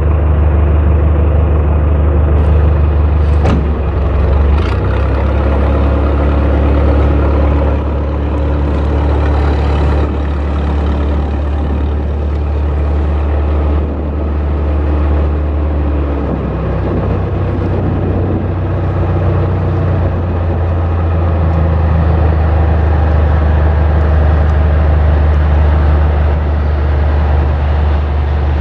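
Heavy machinery running with a loud, steady deep hum. A higher steady tone joins in about five seconds in and drops out about ten seconds later.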